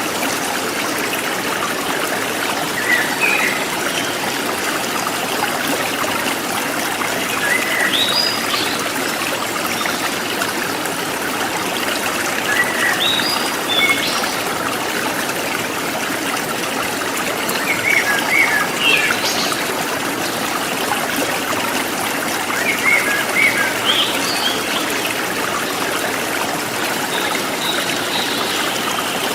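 River stream flowing steadily over rocks, with birds chirping briefly every few seconds.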